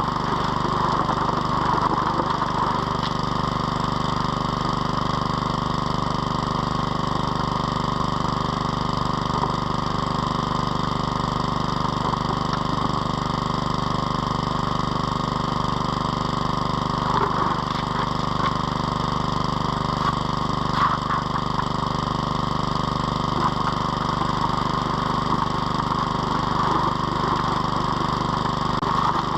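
Small engine-driven water pump running steadily, feeding a high banker. A few brief knocks stand out around 17 and 21 seconds in.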